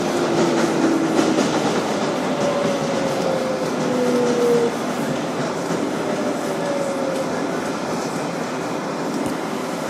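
Interior sound of a Kawasaki R188 subway car on the 7 line: a steady rumble and hiss of the train, with faint tones that drift slightly down in pitch.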